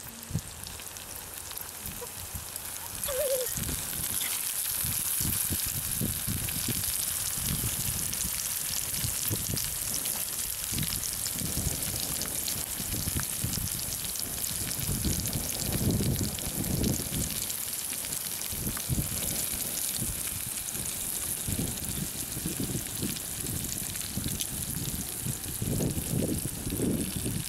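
Oil sizzling and crackling in a kadai as boiled eggs, drumstick pieces, sliced onion and green chillies fry. The sizzle grows louder about three seconds in.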